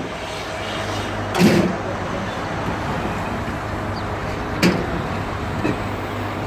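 Steady background noise with a low hum, broken by two short, sharp knocks, one about a second and a half in and one near five seconds in.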